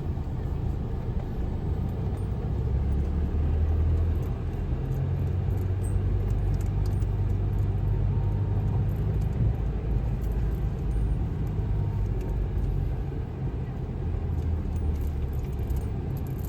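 Car engine and road noise heard from inside the cabin of a moving car: a steady low rumble whose pitch shifts a few times.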